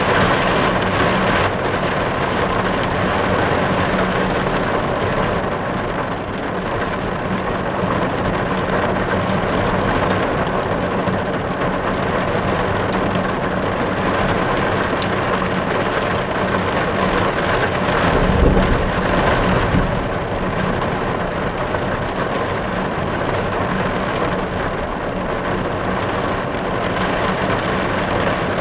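Steady rain falling on a car's roof and windows, heard from inside the car, with a brief low rumble about two-thirds of the way in.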